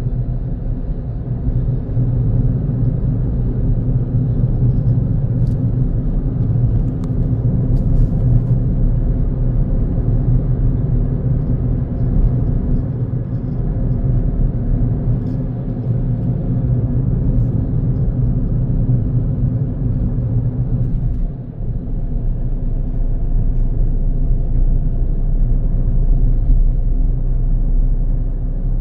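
Car driving on the road, recorded from inside the vehicle: a steady low engine drone with tyre and road rumble. The level briefly dips about two-thirds of the way through, then resumes.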